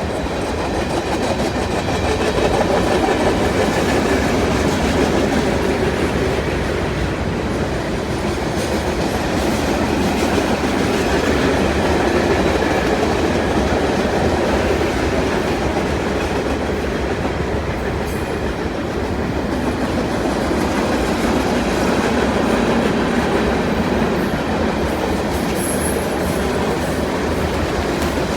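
Freight cars of a Union Pacific manifest train rolling past at a steady speed, wheels clicking over the rail joints with a constant rumble.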